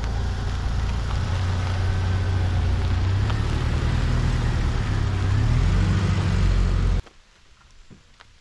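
Jeep Wrangler engine running steadily, its note rising near the end as it revs; the sound cuts off suddenly about seven seconds in, leaving only faint outdoor rustle.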